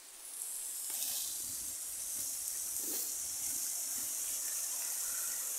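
Waterfall rushing: a steady high hiss of falling water that swells up over the first second and then holds even.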